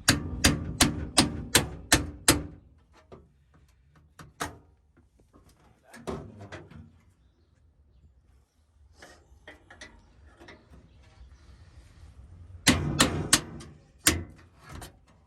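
Hammer blows driving a chisel through the Civic's body panels at the spot welds: a quick run of about six sharp metallic strikes, a single strike a couple of seconds later, and another burst of strikes near the end.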